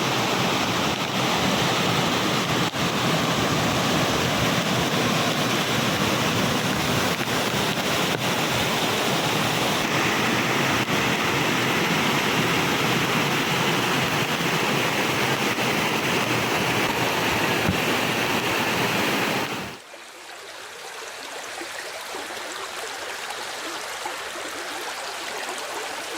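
Rushing water of a monsoon waterfall and its stream, a steady, loud, even rush; about twenty seconds in it cuts abruptly to a quieter rush.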